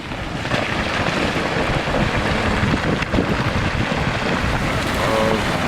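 Steady rushing, wind-like noise that builds slightly, with a short held tone near the end.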